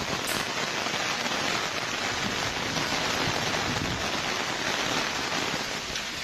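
Heavy rain pouring down onto hard surfaces: a steady, dense hiss.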